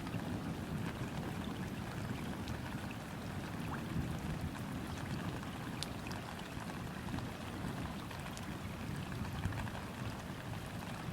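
Steady rain falling onto river water, an even hiss with scattered separate drop ticks over a low rumble underneath.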